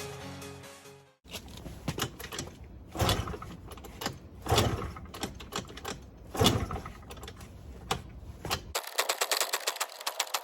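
Background music fades out, then a run of irregular clicks and a few louder knocks. About nine seconds in, a rapid, even rattle of typewriter-style clicks starts, the kind of sound effect laid under on-screen text.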